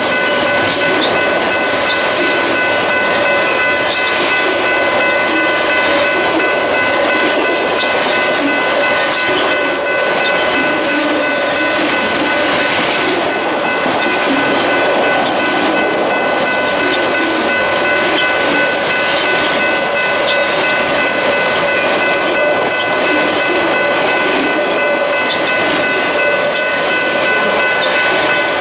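Train rolling past close by: steady rumble of rail wheels with frequent clicks, and a constant high-pitched whine held throughout.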